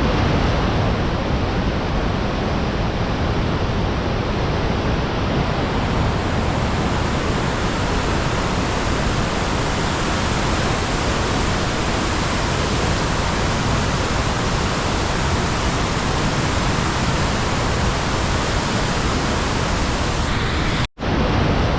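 Steady rush of a fast-flowing river, an even wash of water noise with no breaks, cutting out for a moment near the end.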